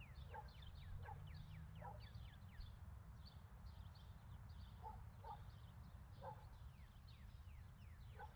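Near silence with faint bird chirping: quick, repeated falling chirps, thickest in the first few seconds, and a few short lower calls scattered through, over a steady low hum.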